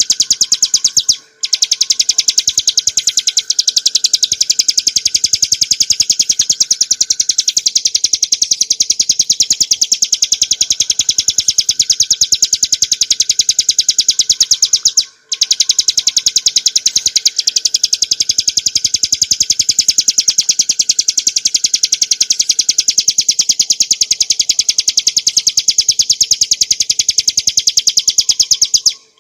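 Ciblek gunung (a prinia) singing a long, rapid, high-pitched trill of repeated notes, broken off by two short pauses, one about a second in and one about halfway through.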